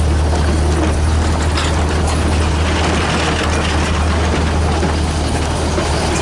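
A steady low mechanical hum under a constant background of noise.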